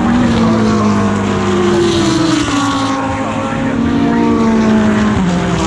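GT3 race car engine running on track. Its pitch slides slowly lower, with a sudden step down about five seconds in.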